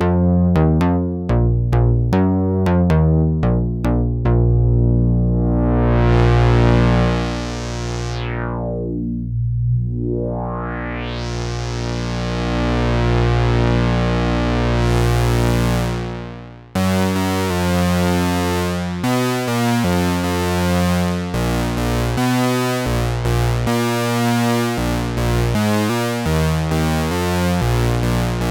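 Behringer 2600 analog synthesizer playing. A few quick, short notes come first, then one long held note with a strong low end whose brightness slowly closes down to a dull tone and opens up again as the filter sweeps. About 17 s in this stops suddenly and gives way to a run of short notes at shifting pitches.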